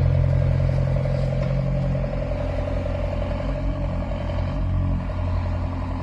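Engine of a large canal barge running steadily at low revs, a low, even throb that eases slightly about two seconds in.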